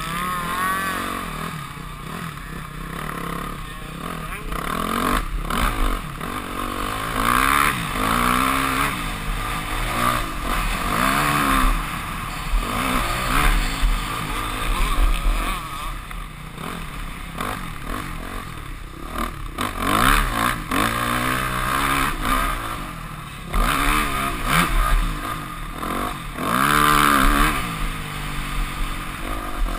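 Yamaha YZ250F four-stroke single-cylinder motocross engine, ridden hard, revving up and dropping off again and again through gear changes and corners, with clattering knocks from the bike. Heard from a helmet-mounted camera.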